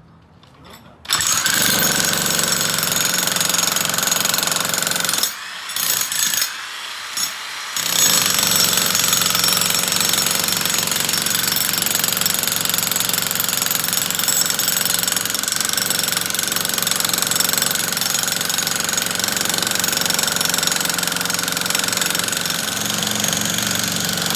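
Electric jackhammer starting up about a second in and hammering steadily. It pauses briefly twice a few seconds in, then runs on without a break.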